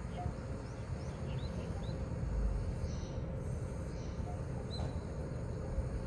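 Small birds giving short, high, rising chirps now and then over a steady low background rumble of outdoor ambience.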